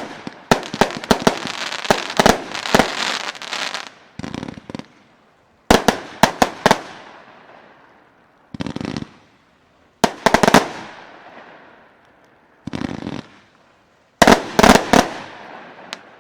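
Consumer fireworks going off: dense crackling reports at first, then groups about every four seconds, each a short rushing launch followed by a cluster of loud sharp bangs that trail off.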